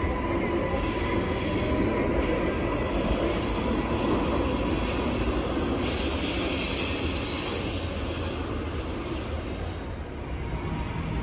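Train running on the rails with a steady rumble and a high-pitched squeal of wheels on the track, strongest in the second half and fading near the end.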